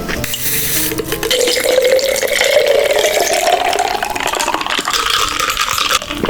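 A drink poured steadily into a glass, its pitch rising as the glass fills.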